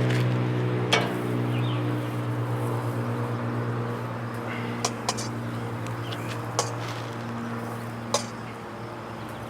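A low engine drone, steady in pitch, fading away over several seconds, with a handful of sharp metal clinks from utensils at a grill scattered through it.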